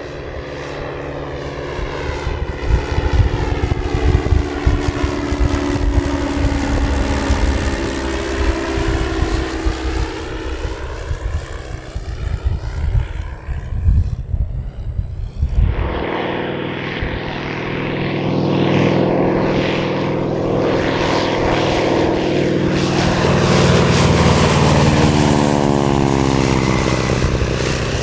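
Light vintage propeller plane flying past, its piston engine droning with a sweeping pitch as it passes, under gusty low rumble. About sixteen seconds in the sound changes abruptly and another pass follows, the engine note sweeping down as it goes by.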